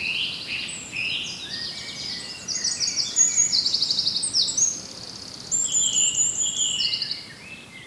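Several songbirds singing over one another in quick chirps and rapid trills. The singing fades away near the end.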